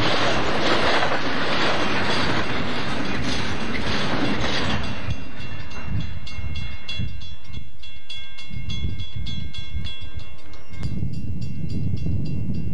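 Double-stack container train passing close by, its wheels clattering on the rails. The noise drops about five seconds in as the end of the train goes by, leaving a low rumble that grows louder near the end as diesel locomotives approach.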